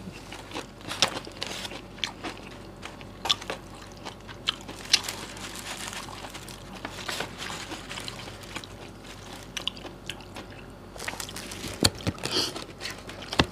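Close-up chewing and crunching of a mouthful of vegetable salad dressed in peanut sauce: irregular crisp clicks throughout, a few of them louder near the end.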